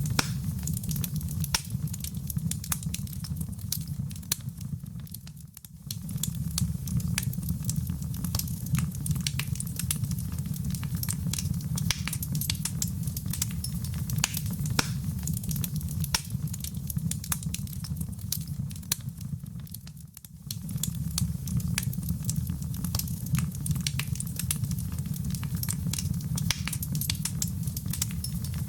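Wood fire in a fireplace crackling steadily over a low rumble of flames, with frequent sharp pops and snaps. The sound dips briefly twice, about five seconds in and again about twenty seconds in.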